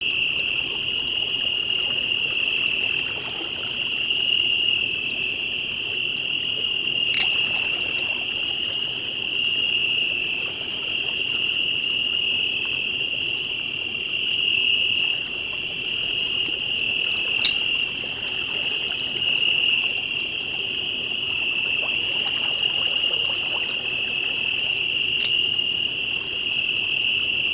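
Steady, continuous chorus of crickets trilling, with three sharp pops from a campfire scattered through it.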